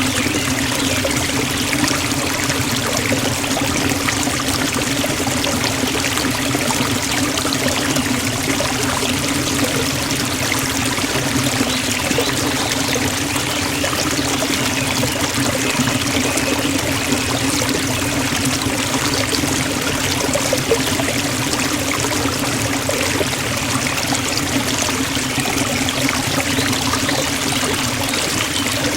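Waterfall pouring steadily into a stream, a dense, even rush of falling and splashing water.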